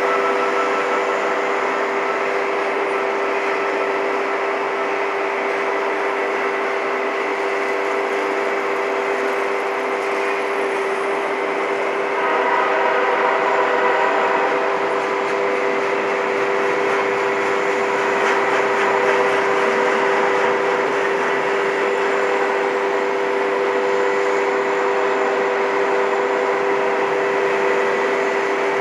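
Freight cars of a long train (autoracks, then double-stack container cars) rolling past with a steady rumble of wheels on rail, while the grade-crossing warning bell rings continuously.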